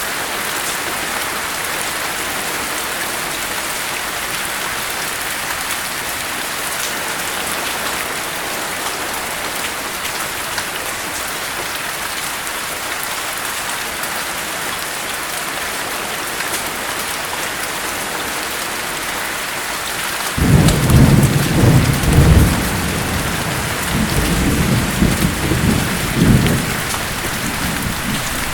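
Steady heavy rain hissing throughout. About two-thirds of the way in, a roll of thunder breaks in suddenly and rumbles in several pulses, easing and swelling again before fading near the end.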